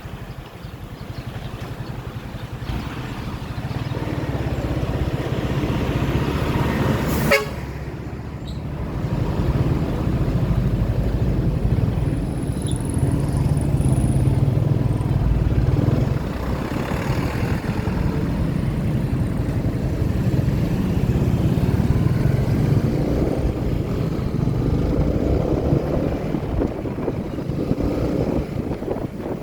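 Motorcycle engine running on the road with wind and road noise, growing louder over the first few seconds. A single sharp knock about seven seconds in.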